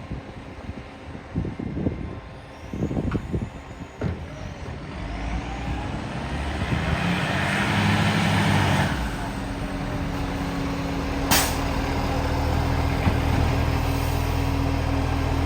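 Garbage truck with an exhaust leak: a few irregular knocks, then the engine builds up under a loud hiss. A sharp snap comes about eleven seconds in, and the engine settles into a steady run.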